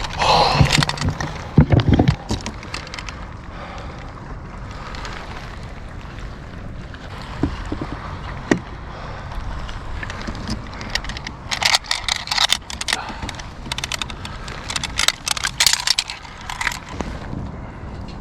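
Clattering and rattling of gear being handled on a kayak, in two spells of quick clicks and knocks, over steady wind noise on the microphone.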